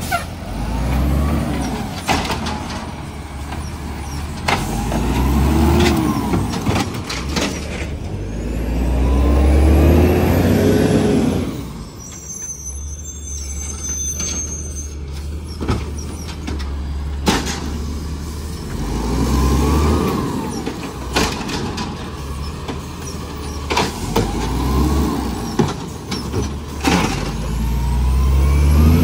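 Garbage truck at work: its diesel engine revs up and falls back about five times, with sharp bangs and hisses of air from the brakes between the revs.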